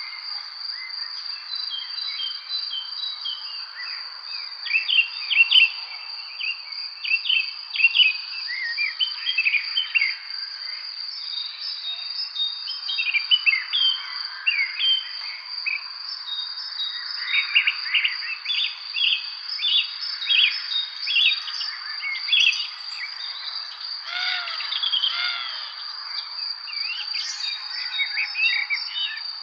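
Several songbirds chirping and singing in many short, overlapping calls, busier from about four seconds in, over an unbroken high-pitched trill.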